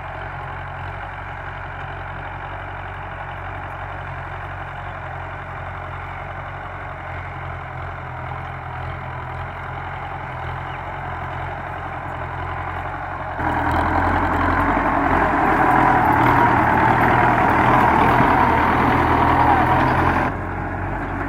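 Belarus 510 tractor's diesel engine running steadily; about two-thirds of the way through it abruptly becomes louder and harsher for about seven seconds, then drops back just as suddenly.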